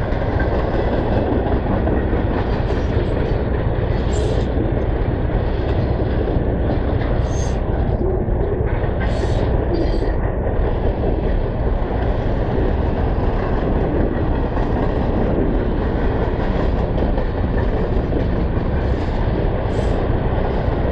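A long train rolling past: a steady rumble and rattle of the cars on the rails, with several brief high squeaks along the way.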